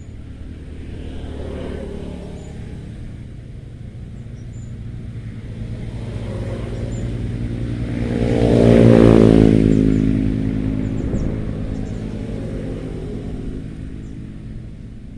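A motor vehicle driving past close by: its engine and tyres grow louder to a peak about nine seconds in, then the engine pitch drops as it moves away. A fainter vehicle passes about a second and a half in.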